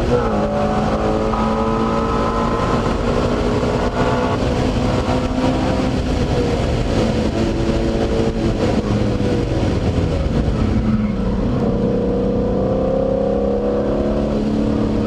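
Car engine at full throttle heard from inside the cabin, with road and wind noise. It drops in pitch right at the start as it shifts up, then climbs slowly for about ten seconds, falls around eleven seconds as the car brakes for a corner, and climbs again near the end.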